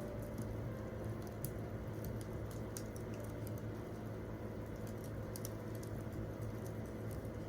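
Wood campfire crackling: irregular small sharp pops and snaps over a steady low hum.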